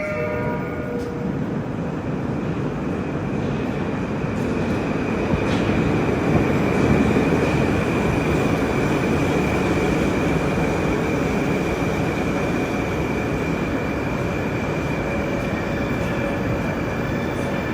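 Moscow Metro train running between stations: a steady rumble of wheels on rail with a thin, steady high whine, swelling slightly about a third of the way through.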